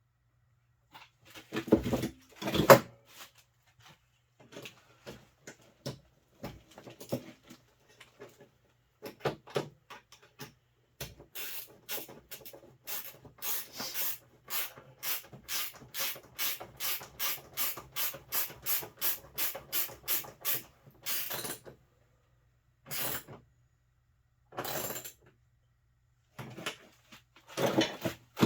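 Ratchet wrench clicking in a steady run of about three clicks a second as bolts are tightened, with scattered knocks and clatter of tools and parts being handled before and after.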